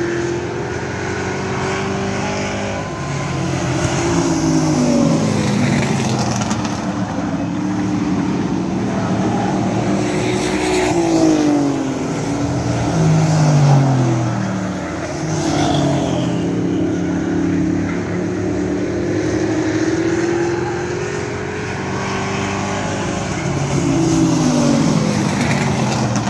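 Several race truck engines running at racing speed, the overlapping notes repeatedly rising and falling in pitch as the trucks accelerate and back off around the track.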